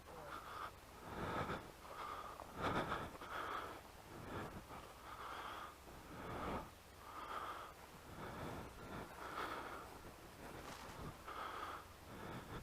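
A person breathing hard, panting in faint repeated breaths every second or two.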